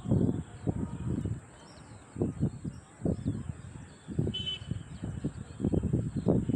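Faint bird chirps, over an irregular series of louder low, muffled bumps.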